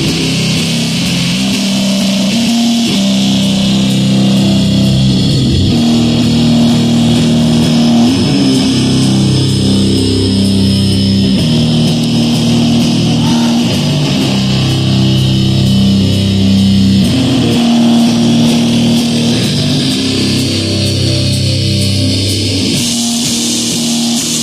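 A rock band playing live, loud and heavy: electric guitar and bass hold long, sustained low notes that shift every few seconds.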